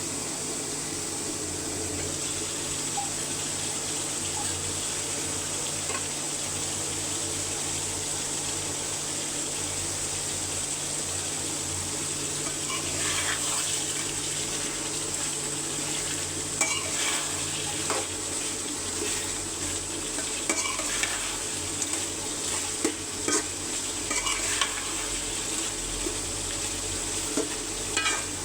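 Chicken curry frying in oil in a pot with a steady sizzle. From about halfway through, a stirring utensil scrapes and knocks against the pot in irregular strokes.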